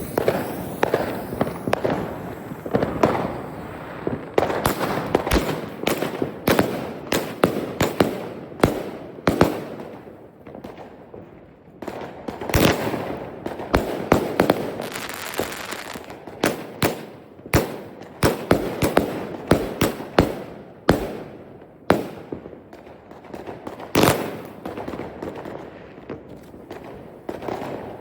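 Fireworks going off: many sharp bangs at irregular intervals over continuous crackling and popping.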